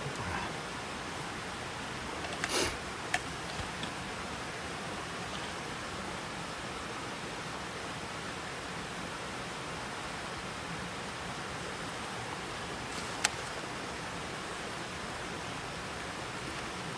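Steady, even rushing noise, with a few sharp clicks and knocks about two and a half seconds in, just after, and about thirteen seconds in.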